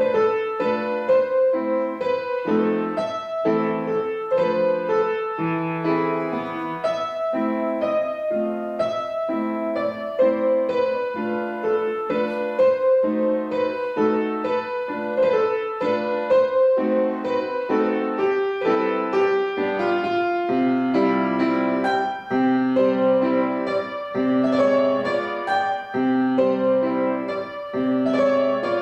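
Solo piano playing a slow, lyrical piece: a singing melody over steadily repeated chords.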